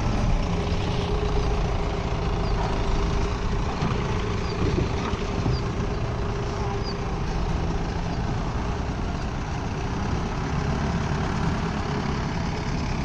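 Large diesel engine running steadily at a constant speed, with a steady hum over a low engine sound.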